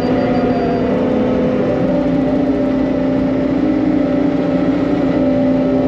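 Engine of a piece of earthmoving equipment running steadily at a constant speed, with a steady hum.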